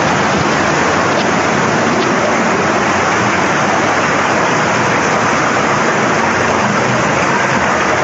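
Floodwater rushing, loud and steady.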